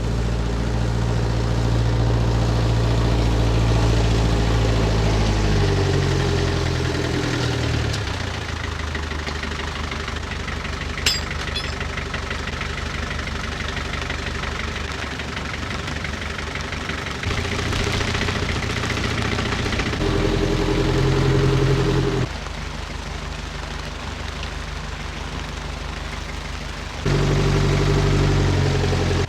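Vehicle engine running under load and revving up and down in several steps while manoeuvring the bare Land Rover chassis uphill and round a turn. There is one sharp click about eleven seconds in.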